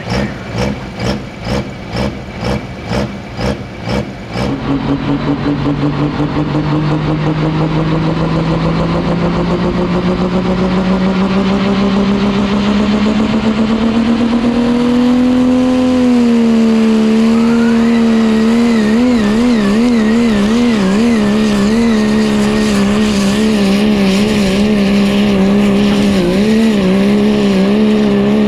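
Pulling truck's engine: a pulsing, uneven idle at about two beats a second, then revs climbing steadily for about ten seconds and held high, the pitch wavering up and down.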